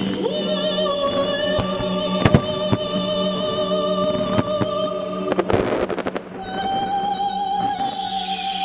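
Fireworks going off over the display's music: single sharp bangs every second or so, then a quick run of crackling bursts about five and a half seconds in. The music underneath is a singing voice holding long notes.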